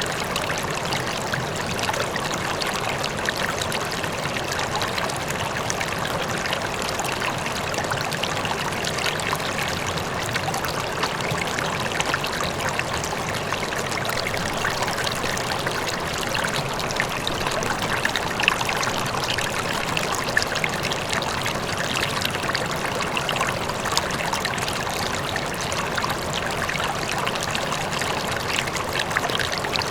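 River water flowing and splashing steadily, a continuous rushing babble with small splashes throughout.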